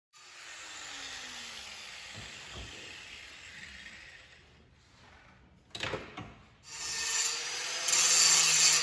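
Power-tool noise in two stretches with a few sharp clicks between them; the second stretch is louder, with a steady motor whine.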